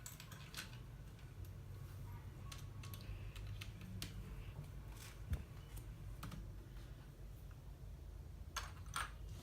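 Small plastic LEGO pieces clicking and tapping as they are handled and pressed together: scattered irregular clicks, a few sharper ones near the end, over a steady low hum.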